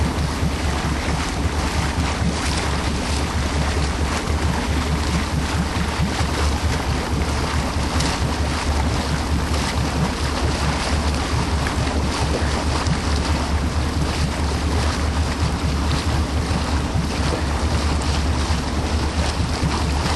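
Wind buffeting the microphone and water rushing around a small boat, an even rushing noise over a steady low drone.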